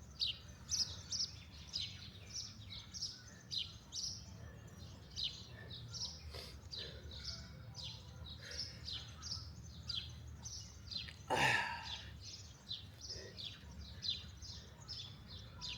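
Wild birds chirping: short, high, quickly falling chirps, several a second and repeating throughout. One louder, fuller call comes a little past the middle, over a steady low background rumble.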